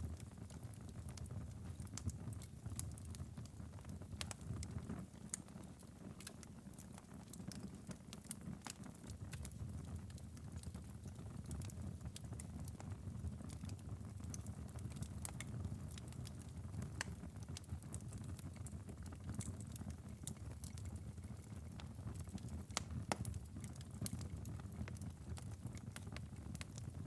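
Wood fire crackling in a fireplace: frequent small sharp pops and snaps over a steady low rumble of the flames, with a few louder pops.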